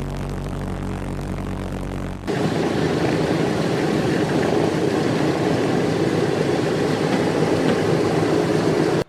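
Propeller aircraft piston engine sound, two edited pieces: a steady low drone with a clear pitch, then about two seconds in a sudden cut to a louder, rougher engine running steadily.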